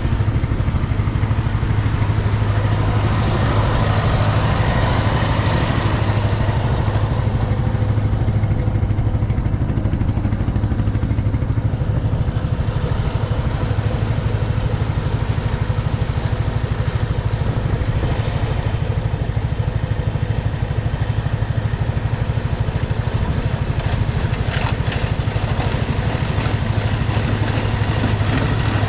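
Tractor engine running steadily under load while driving a snowblower, with a rushing of thrown snow early on and a few sharp knocks of ice chunks about three-quarters of the way through.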